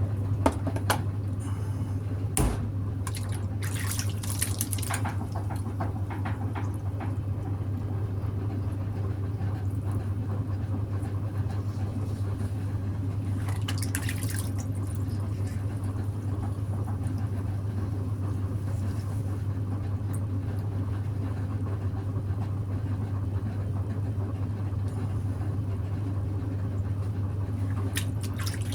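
Electric potter's wheel running with a steady low hum, under the wet sloshing and squelching of water and clay as a pot is thrown. A few light knocks come in the first few seconds.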